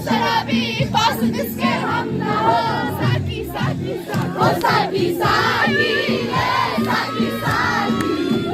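A crowd of young people shouting and singing along together over loud music with a steady beat.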